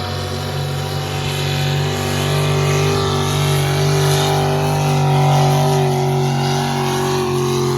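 Pulling truck's engine running hard under heavy load as it drags the weight sled down the track, a loud steady drone that swells slightly about halfway through.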